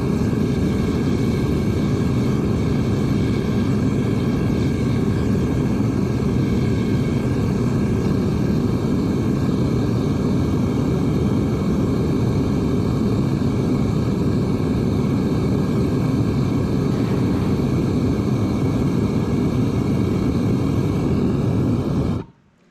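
Melting furnace burner running at a steady roar while heating the crucible of copper. It cuts off abruptly near the end.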